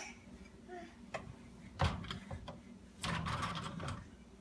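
Dishwasher rack and dishes being handled by a small child: a few sharp clicks and knocks, then about a second of clattering and rattling about three seconds in.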